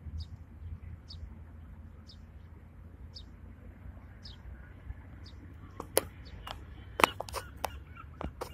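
A small bird chirping, one short high note roughly every second, over a low wind rumble. In the last few seconds several sharp clicks and snaps come close by, the loudest about six and seven seconds in.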